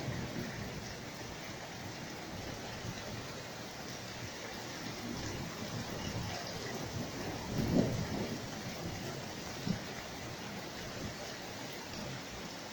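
Steady rain during a thunderstorm, with a brief low rumble of thunder about two-thirds of the way through.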